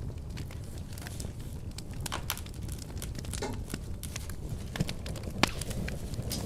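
Wood fire crackling in a fireplace: a steady low rumble of the flames with scattered sharp pops and snaps, one louder pop about five and a half seconds in.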